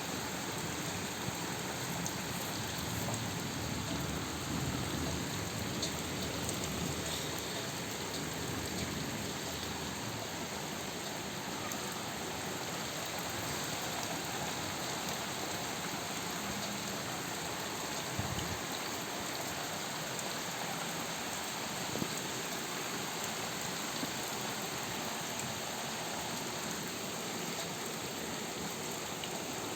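Heavy rain falling steadily, an even hiss of rain on surfaces with a few brief louder drip ticks.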